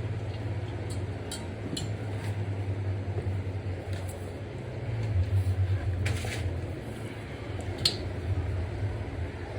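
Scattered light clicks and knocks, with a short scrape about six seconds in, from a pit bike tire and tube being handled with tools, over a steady low hum.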